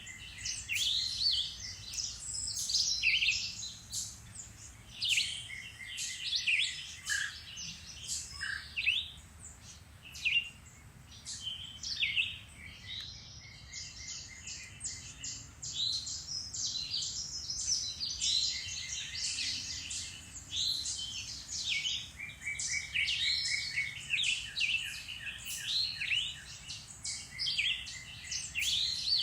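Many woodland songbirds singing and calling at once, a dense mix of chirps, whistles and rapid trills.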